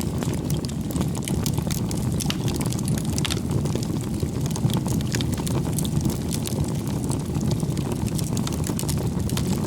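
Firewood burning in an open bonfire: a steady low rumble of flames with frequent small, sharp crackles and pops from the wood.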